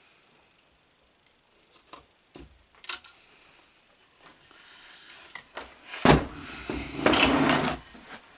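Tools and parts being handled on a workbench: scattered light clicks and knocks, a sharper click about three seconds in, then a louder rustling clatter for about two seconds from around six seconds in.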